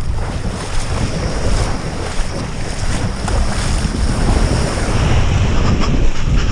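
Strong wind buffeting the microphone in uneven gusts, over the rush and splash of water while kitesurfing on a skimboard.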